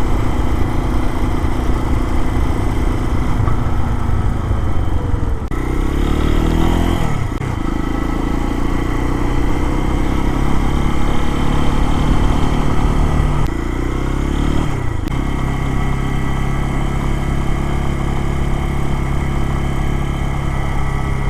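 Lifan KPX250's single-cylinder four-stroke 250 cc engine running under way, with the engine note changing pitch about six seconds in and again about fourteen seconds in.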